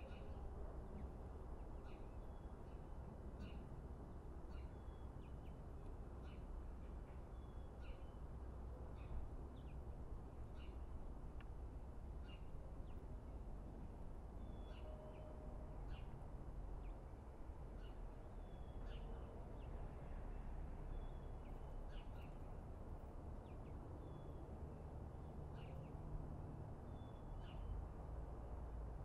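Small birds chirping over and over, short high chirps every half second or so, over a steady low background rumble.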